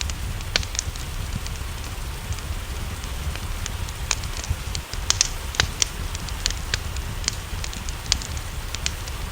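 Wood fire crackling in a fireplace, with irregular sharp pops several times a second, over a steady hiss of rain and a low rumble.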